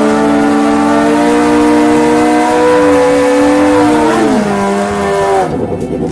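Drag-racing motorcycle engines held at high revs with a steady pitch, dropping in pitch about four seconds in and giving way to a lower, rougher running sound near the end.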